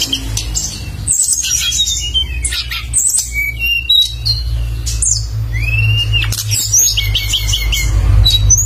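Songbird singing a fast, varied run of chirps, trills and sharp rising and falling whistles, over a steady low hum.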